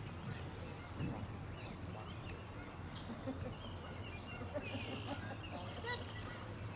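Birds calling faintly, short scattered calls mostly in the second half, over a steady low outdoor background noise.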